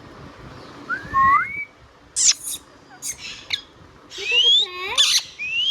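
Indian ringneck parakeet calling, a mix of rising whistles and short, sharp squawks. There is a rising whistle about a second in, squawks after it, and more rising whistles near the end.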